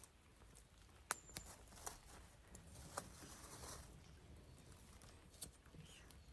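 Wood campfire crackling quietly, with a few scattered sharp pops, the loudest about a second in.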